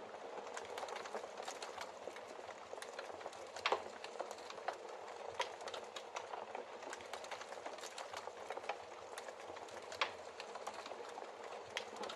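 Wood logs burning in a fireplace: a steady hiss of flames with frequent small crackles and snaps, and louder pops about four seconds in and again near the end.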